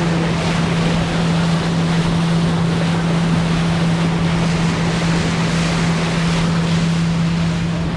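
Pontoon boat's motor running steadily under way, a constant low drone, with wind rushing over the microphone.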